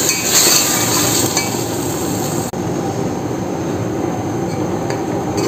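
Chicken with yogurt and spices frying in oil in a stainless steel pot, sizzling steadily while a steel slotted spoon stirs it, with occasional clinks of the spoon on the pot: the bhuna stage of cooking the masala. The sound changes abruptly about two and a half seconds in.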